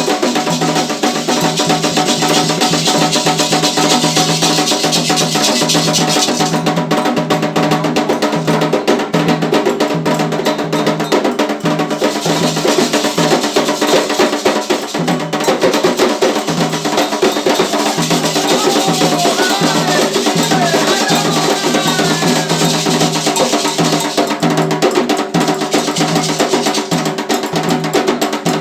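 Drum-led ritual music: hand drums and a clacking wood-block-like percussion keep up a fast, dense beat.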